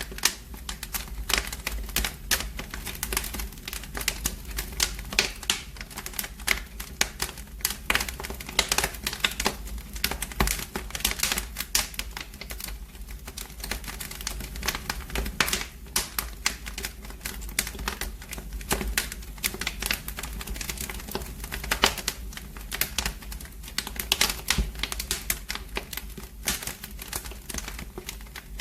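Wood fire in a fireplace crackling: dense, irregular sharp pops and snaps over a steady low rumble of the flames.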